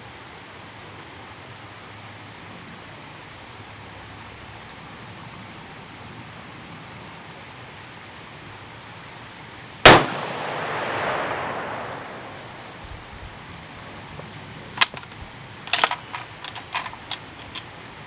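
A single 6.5 Creedmoor rifle shot about ten seconds in, its report echoing away over about two seconds. A few seconds later comes a quick run of sharp metallic clicks and clacks of the rifle's bolt being worked.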